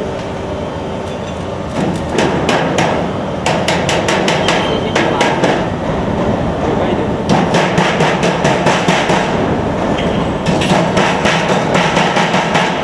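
Automatic HVAC duct production line for sheet metal running, a steady machine din broken by runs of rapid sharp metallic knocks, the first starting about two seconds in and more around seven and ten seconds in.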